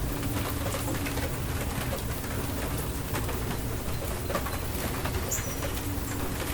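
Steady rain falling, with fine drops pattering throughout. A bird coos low in the background, on and off.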